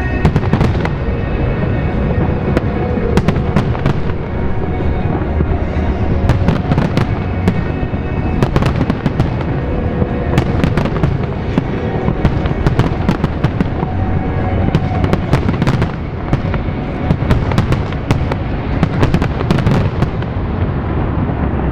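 Fireworks display: rapid, dense bangs and crackling bursts going off continuously, heaviest in two flurries around the middle and near the end, with music playing underneath.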